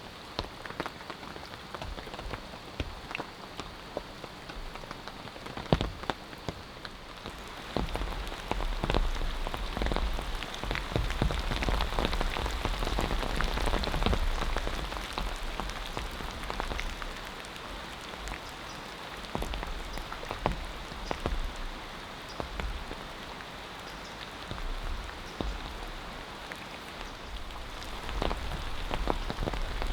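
Rain falling steadily, with many individual drops striking close by as sharp clicks; the rain grows heavier for a few seconds about a third of the way in, then eases.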